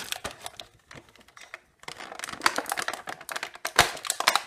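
Hands handling plastic packaging and small die-cast model vehicles: a quick run of small clicks and rustles, with a short lull and a sharper knock late on.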